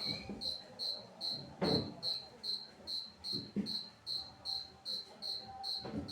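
A cricket chirping steadily, short high chirps at about two to three a second, with a few dull knocks of things being handled, the loudest a little under two seconds in.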